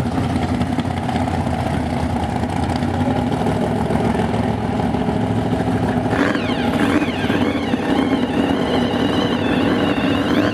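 Rat rod engines running with a steady, loud rumble. From about six seconds in, a high wavering tone rises and falls above it.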